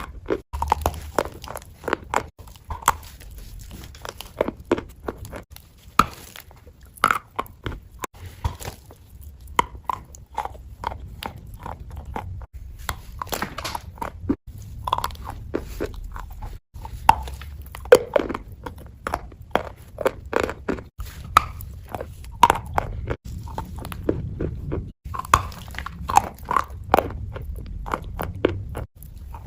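Close-miked fake-eating ASMR: a crunchy prop coated in wet paste is bitten and crunched over and over, with irregular sharp crunches and wet crackling. The sound breaks off abruptly several times where short clips are joined.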